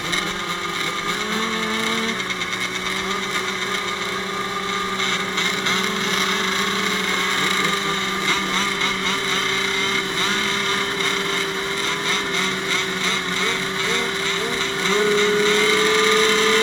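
A field of 85cc two-stroke motocross bikes revving together on the start line while waiting for the gate to drop: a steady drone of many engines with small blips of throttle. About fifteen seconds in, the pitch rises a step and it gets louder.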